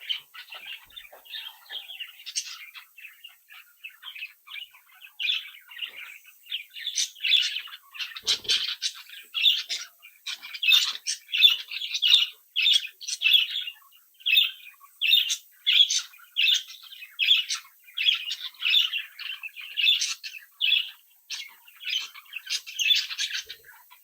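Budgerigars chirping and warbling together, a continuous run of short calls that grows busier and louder after the first several seconds.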